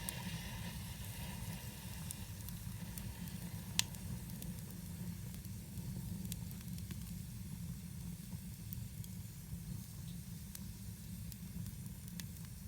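Campfire burning and crackling, with scattered sharp pops, one louder pop about four seconds in, over a steady low rumble.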